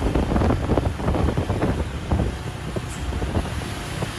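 Road traffic noise from heavy vehicles passing, with wind buffeting the microphone; the noise eases slightly about halfway through.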